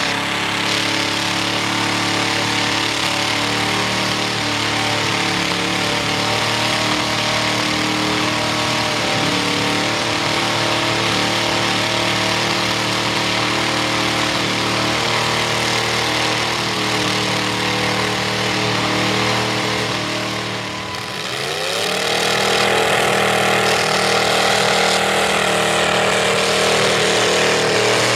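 A vehicle engine running steadily. About 21 seconds in it dips briefly, then revs up and holds at a higher, louder speed.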